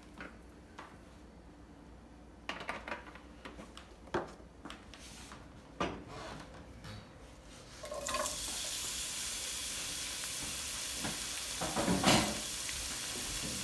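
Scattered knocks and clinks of kitchen utensils, then about eight seconds in chopped onion goes into a hot pan and starts sizzling steadily, with a burst of stirring clatter near the end.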